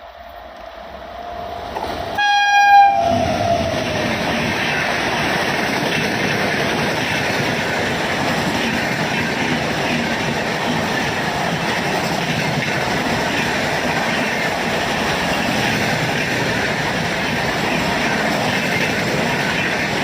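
An Indian Railways express train, hauled by an electric locomotive, approaches and passes at speed. The horn sounds briefly about two seconds in, falling in pitch as the locomotive goes by. Then comes the steady rushing clatter of the coaches running past.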